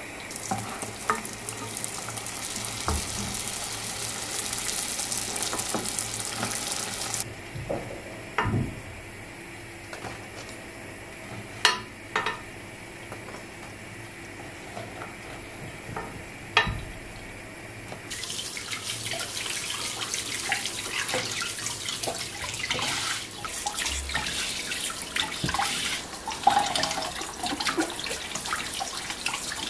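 Water running from a tap into a sink. It stops about seven seconds in, leaving a quieter stretch with a few sharp knocks and clinks, then runs again from about eighteen seconds on.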